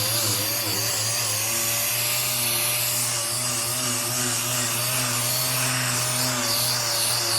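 Power sander running steadily on the sheet-steel cab roof with 320-grit paper, taking off the last of the surface rust.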